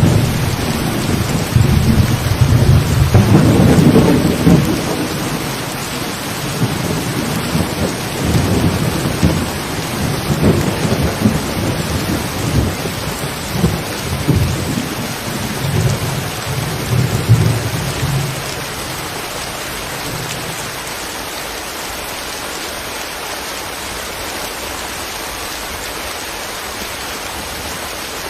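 Steady rain with a long, rolling rumble of thunder over it that dies away about two-thirds of the way through, leaving the even hiss of the rain.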